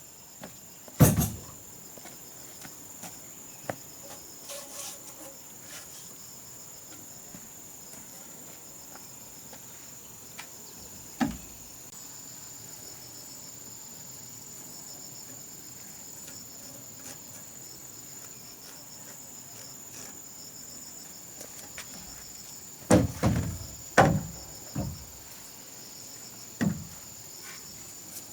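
Steady high-pitched trill of crickets, broken by scattered sharp knocks: one about a second in, one near the middle, and a cluster of several near the end.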